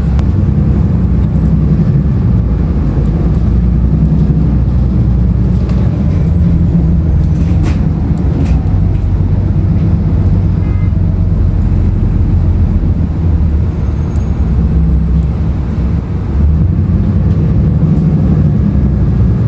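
A 2016 Nova Bus LFS on the move, heard from inside: its Cummins ISL9 diesel engine running with a steady low drone under road noise. A few brief clicks come about six to eight seconds in.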